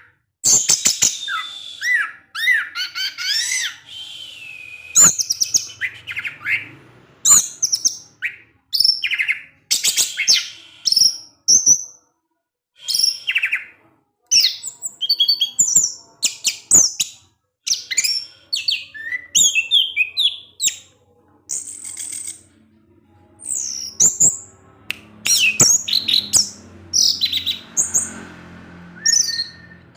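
Orange-headed thrush (anis merah) singing a fast, varied string of sharp 'ngecis' chirps, whistles and sliding notes, broken by a few brief pauses. It is a song used to coax other captive orange-headed thrushes into singing.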